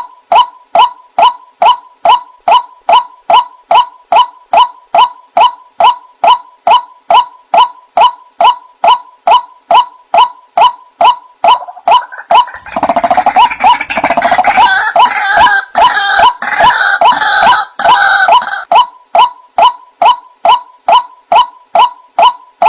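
White-breasted waterhen (ruak-ruak) calling: a steady, monotonous series of "kwak" notes, about three a second. From about halfway through, a louder, harsher jumble of calls joins in for some seconds, then the plain series goes on.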